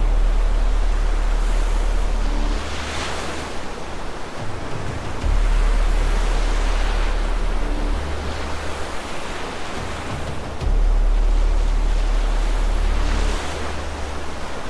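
Heavy waves and rushing flood water, swelling into loud surges about every four seconds. Under the water is a deep low rumble that comes and goes in blocks of a few seconds.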